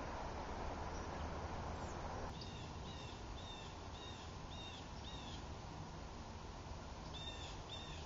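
A bird calling a short, high chirp over and over, about two a second, six times and then twice more near the end. Under it is a steady outdoor background hiss that drops in level a couple of seconds in.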